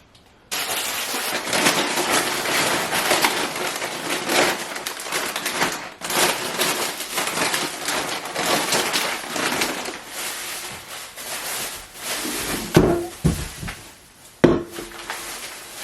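Continuous rustling and clatter of objects being handled, with two sharp knocks near the end.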